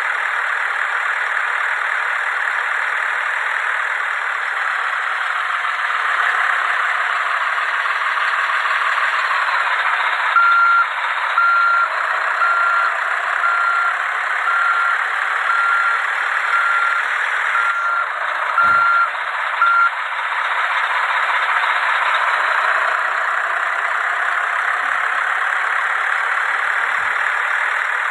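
Truck reversing alarm beeping, a short single-tone beep repeated evenly, a little more than once a second; it starts about ten seconds in and stops about twenty seconds in. Under it runs a steady noise.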